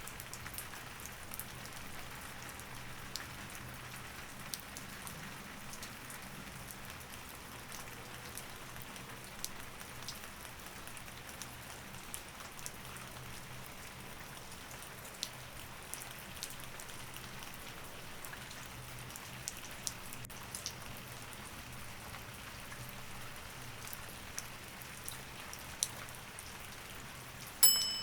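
Steady rain with scattered sharp drop ticks. Near the end, a short bright chime rings out and fades: a timer signal marking the switch from break to the next pomodoro study session.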